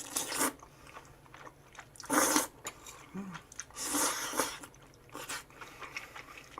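Close-miked eating: a handful of short bites and chewing noises, the loudest about two seconds in and another about four seconds in.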